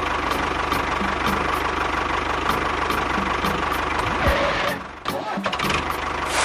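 Engine running steadily, with a brief dropout about five seconds in.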